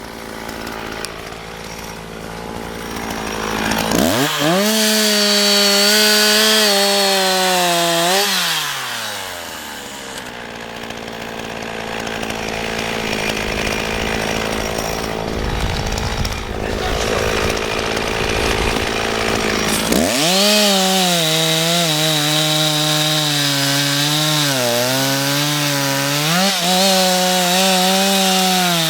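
Husqvarna two-stroke chainsaw revved up sharply to full throttle about four seconds in, held for a few seconds, then dropping back. About twenty seconds in it goes back to full throttle and holds there, its pitch dipping briefly as the chain bites into wood.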